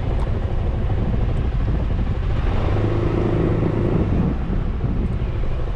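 Suzuki Burgman 400 scooter running on the road, with a steady low rumble of engine and wind on the mount-mounted camera. A humming tone rises out of it for about a second in the middle.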